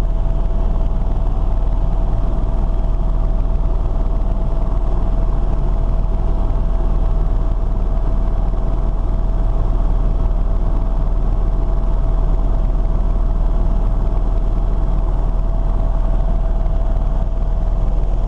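Aircraft in flight: a steady engine drone with a low rumble and a constant hum, unchanging throughout.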